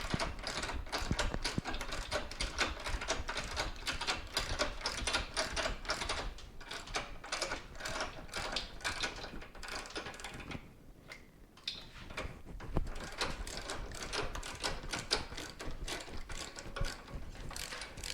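Ratchet wrench clicking in quick runs as bolts are backed out to remove the motorcycle's skid plate, with a short pause a little past the middle.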